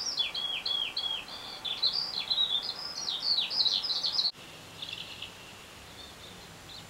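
Small songbird singing a fast, varied run of high chirps and warbles, played from a television's birdsong programme. The song breaks off abruptly about four seconds in, then fainter song carries on.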